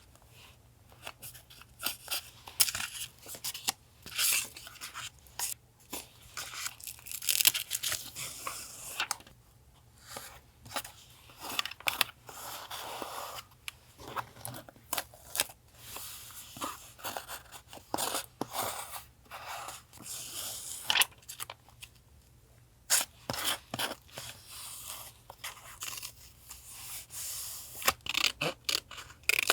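Paper being handled close up: irregular crinkling, rustling and tearing sounds in short bursts with brief pauses, over a faint steady low hum from a refrigerator.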